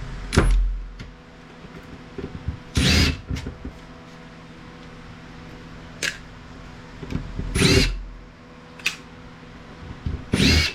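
Cordless power driver spinning out screws from a circuit board in four short whirring bursts, with a few sharp clicks between them.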